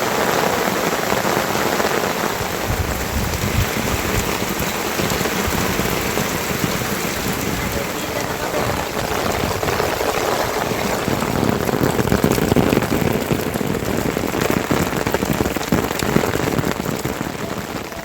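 Rain falling steadily: a dense, even hiss with many separate drop hits.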